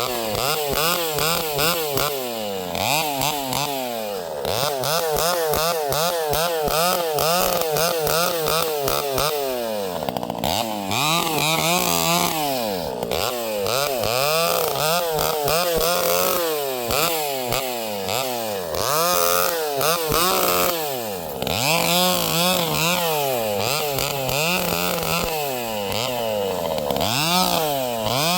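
Vintage Pioneer two-stroke chainsaw running hard, its engine speed wavering constantly up and down, the blubbering of its governed carburettor. It drops back briefly several times before picking up again.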